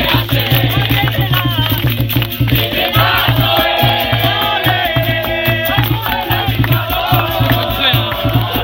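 Capoeira roda music: a group singing over percussion, with a steady low drum beat and jingling rattles.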